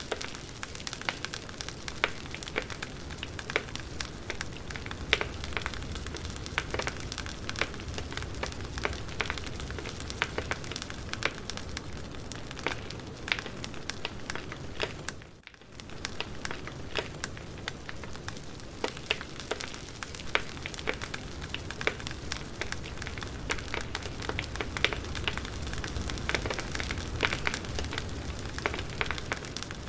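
Campfire burning, with dense crackling and sharp pops over a steady hiss. The sound dips briefly about halfway through.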